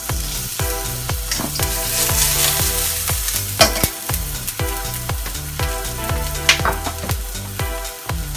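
Minced garlic and ginger sizzling in hot oil in a carbon-steel wok, with two sharp clicks about three seconds apart. Background music with a steady beat plays underneath.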